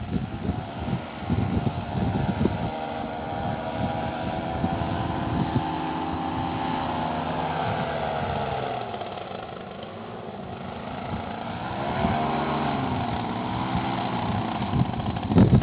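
Small aircraft engine and propeller running steadily, then throttled back about eight seconds in so the pitch sinks. It is opened up again a few seconds later, with gusts of wind buffeting the microphone.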